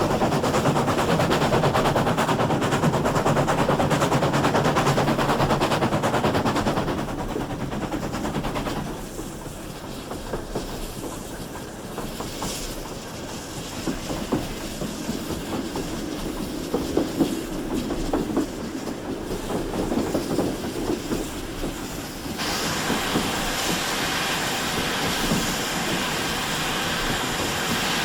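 A train hauled by GWR 64xx-class 0-6-0 pannier tank no. 6412 heard on the move: loud, dense running noise for the first few seconds, then quieter wheel clatter over the rail joints. About 22 seconds in, a steady hiss starts suddenly.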